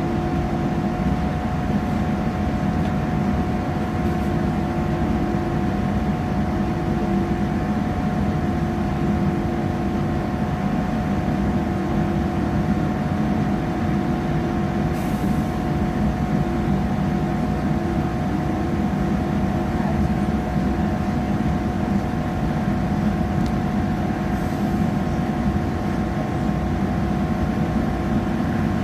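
Steady running noise heard from inside a passenger train carriage: a low rumble of the train under way, with a constant hum from its engine or traction equipment.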